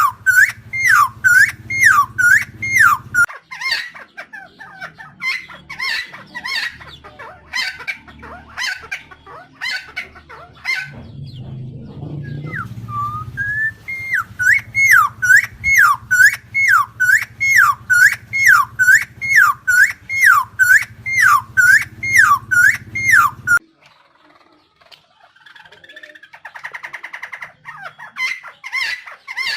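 Helmeted friarbird calling: a long run of loud, repeated swooping notes, about two a second, broken in the middle by a stretch of more varied calls, over a low steady hum. About three-quarters of the way through, the hum and the note run stop and only quieter rasping calls follow.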